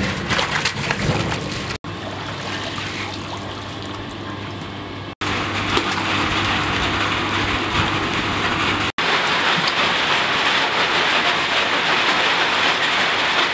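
A steady sizzle of food frying in hot oil, with three brief gaps where it cuts off and comes back; it is louder in the second half.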